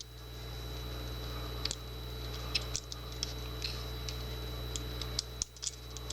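Scattered light metallic clicks and ticks as the small pins and springs of a Kwikset deadbolt's pin-tumbler cylinder are handled during disassembly, over a steady low hum.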